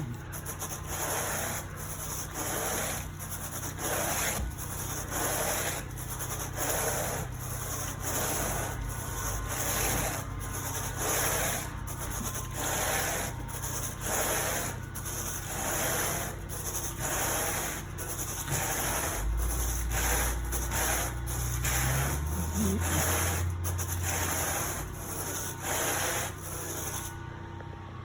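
Carpet grooming rake dragged through damp carpet pile in steady rhythmic strokes, about one and a half scrapes a second, over a steady high hiss that cuts off near the end.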